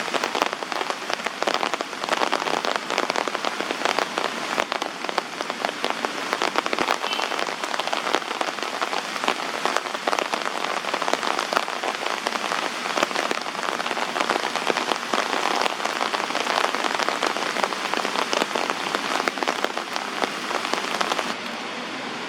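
Heavy rain falling hard: a dense hiss packed with individual drop hits. Near the end it changes abruptly to a steadier, duller rush.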